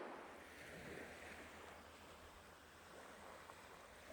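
Near silence: a faint, even wash of surf with a light low wind rumble.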